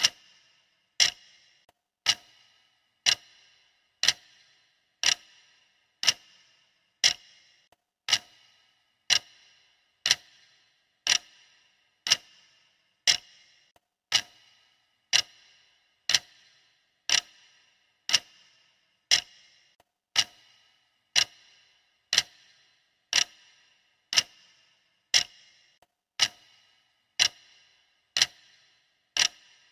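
Clock ticking steadily, one tick about every second, alternating tick and tock, each tick with a short metallic ring.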